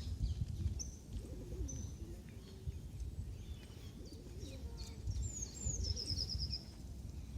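A small songbird singing a short, high song phrase of two slurred notes and then a fast trill, heard right at the start and again about five seconds in, over a steady low outdoor rumble.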